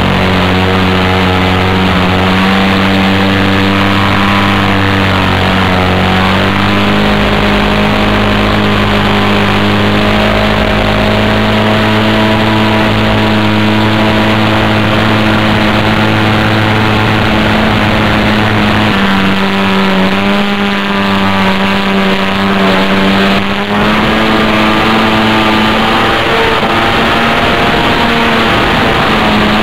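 Small two-stroke glow engine of a control line model airplane running flat out, a loud high-pitched drone that holds steady and shifts pitch a few times, about six seconds in and again around nineteen and twenty-four seconds.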